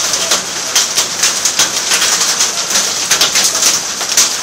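Heavy rain falling during a thunderstorm, a steady hiss dense with sharp taps of drops striking hard surfaces.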